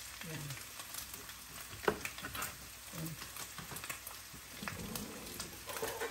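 Bacon and a pancake frying in two pans on the stove: a steady sizzle with scattered sharp crackles and spits, one louder pop about two seconds in.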